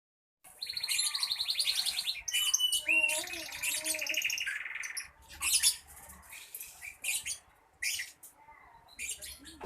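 Young lovebird chattering: long, rapid buzzy trills for the first four seconds or so, then a string of short, separate chirps.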